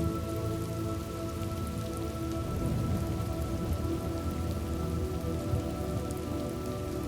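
Steady rain ambience with a low rumble underneath, over a soft drone of held sustained tones.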